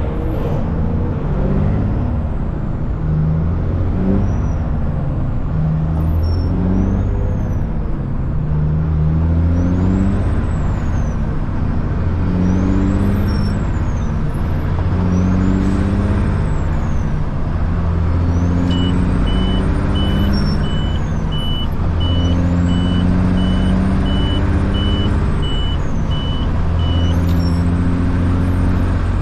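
Caterpillar C-15 diesel in a Kenworth truck running loud, its revs climbing and dropping again and again as it works up through the gears in traffic. Toward the end, a high beeping repeats about twice a second for several seconds.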